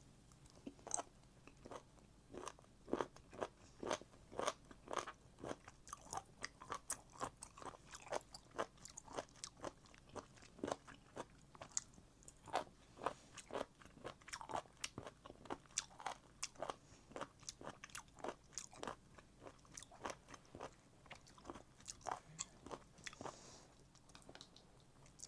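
Close-up chewing of abalone: a steady run of crisp, wet crunches, two or three a second.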